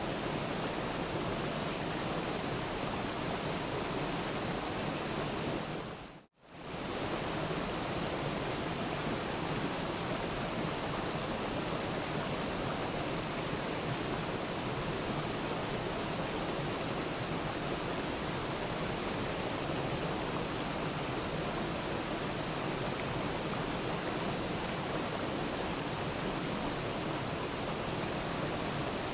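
Waterfall: a steady, even rush of falling water. It drops out to silence for a moment about six seconds in, then comes straight back.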